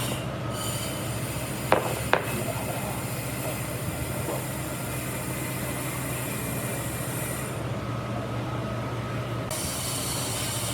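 A machine running steadily with a low hum and a hiss, with two light knocks about two seconds in.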